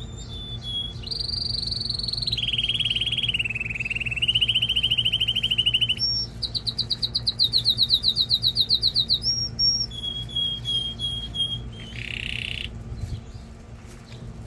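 Male domestic canary singing a run of song phrases: a held high note, a rolling trill that dips and rises again, then a fast rattling trill with a sharp note either side, and short repeated chirps near the end. A steady low hum runs underneath.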